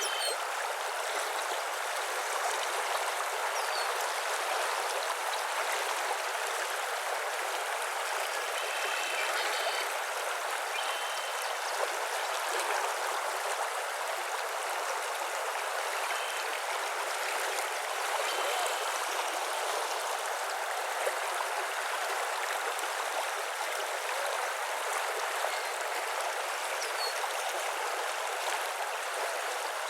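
Steady rushing of running water, with a few faint, short bird calls and chirps scattered through it.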